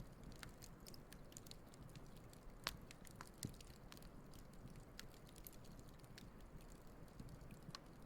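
Wood campfire burning: scattered crackles and pops over a low steady hiss, with two louder pops around the middle.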